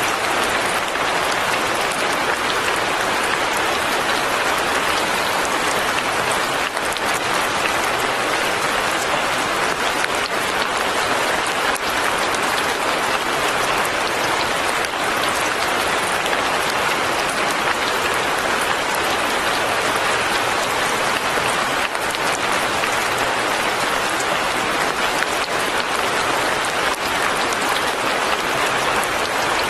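Steady rain, an even dense hiss with no breaks or changes.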